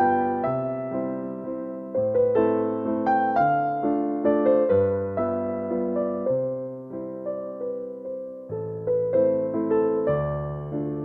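Soft piano music: a slow melody of struck notes that ring and fade, over low bass notes changing about every two seconds.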